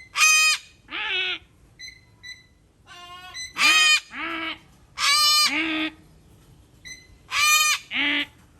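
Parrots squawking: loud, harsh two-part calls, repeated four times.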